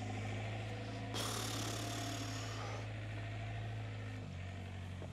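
Excavator's diesel engine idling steadily, with a hiss that starts about a second in and lasts about two seconds. The engine note drops slightly near the end.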